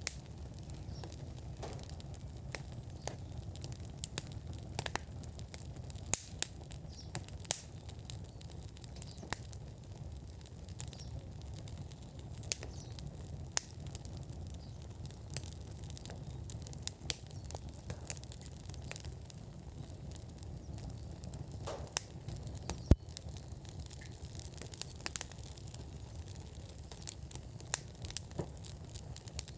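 Wood fire burning in an outdoor fire pit, crackling with irregular sharp pops over a low steady rumble. One pop about 23 seconds in is much louder than the rest.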